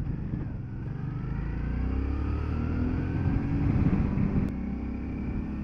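Motorcycle engine accelerating, its pitch rising steadily for a couple of seconds, then easing off near the end, over a low rumble of wind and road.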